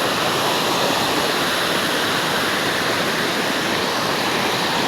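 Waterfall rushing and splashing, a steady loud roar of falling water heard close up.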